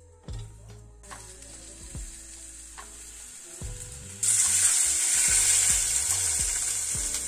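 Food frying in a hot pan, sizzling; the sizzle jumps suddenly much louder about four seconds in.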